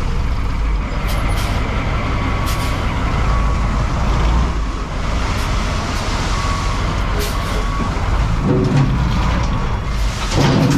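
Heavy truck's diesel engine running steadily, with short hisses of air and a few faint brief beeps.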